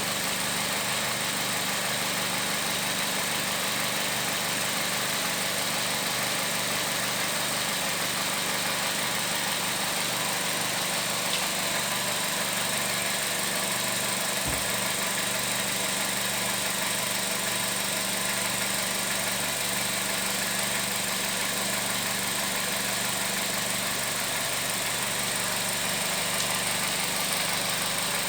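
Toyota Vitz engine idling steadily with the automatic gearbox in Drive, a constant even hum. One brief low knock about halfway through.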